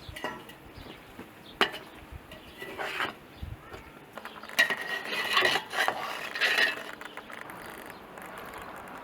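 Scattered sharp knocks and clinks, with a stretch of scraping and rubbing from about four and a half to seven seconds in.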